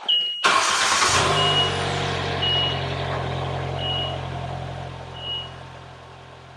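2021 Polaris Slingshot's ProStar 2.0-litre four-cylinder engine cranking and catching at once, then running at a fast idle that settles down. This is its first start after an oil change. A short high electronic beep sounds at the start and repeats about every second and a half.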